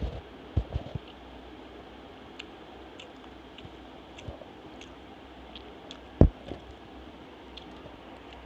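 Close-miked chewing of a fried dhuska, with soft wet mouth clicks scattered throughout. There are a couple of soft knocks in the first second and one louder dull thump about six seconds in.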